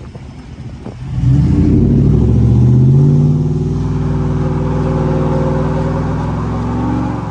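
GMC Sierra High Country pickup's 6.2-litre V8 accelerating hard: the engine comes in loud about a second in, its note climbs briefly and then holds steady.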